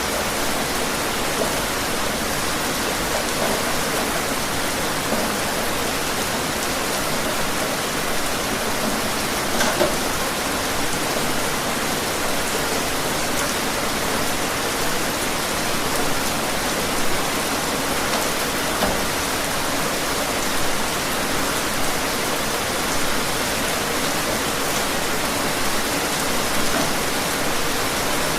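Steady rain falling, an even hiss with scattered louder drop splashes.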